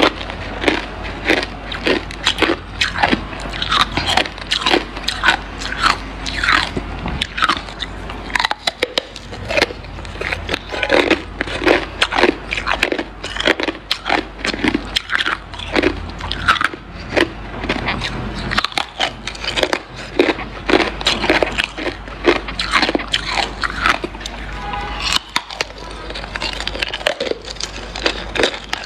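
Hard ice being bitten and chewed close to the microphone: continuous dense crunching and cracking, several crunches a second.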